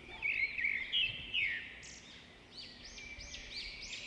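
Birds chirping: a busy run of short, high chirps, loudest in the first second and a half, then a quicker series of repeated arching chirps, about three a second.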